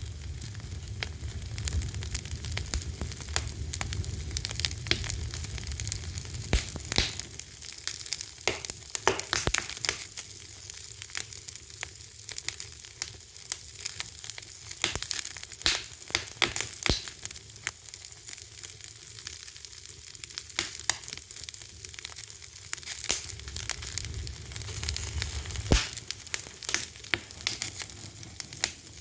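Wood fire crackling: a steady hiss with frequent sharp pops and snaps, and a low rumble of flames at times.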